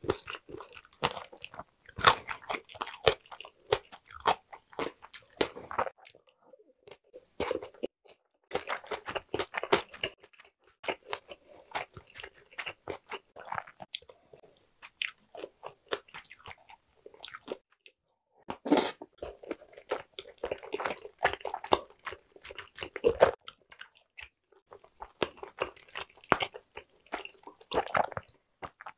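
Close-miked mukbang eating sounds: chewing and biting egg tteokbokki, many quick wet mouth clicks in bouts with short pauses between mouthfuls.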